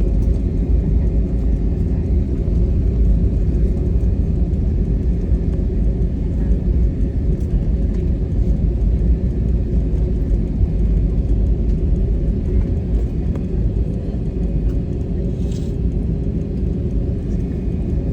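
Steady low engine rumble, as heard around an airliner while boarding.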